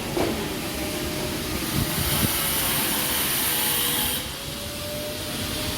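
Street traffic noise: a motor vehicle's engine running close by, a steady rushing hiss with a faint wavering hum.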